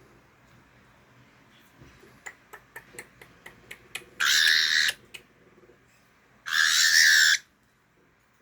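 Cockatiel making two loud, harsh, raspy calls, each under a second long and a couple of seconds apart. They come after a quick run of about ten sharp clicks.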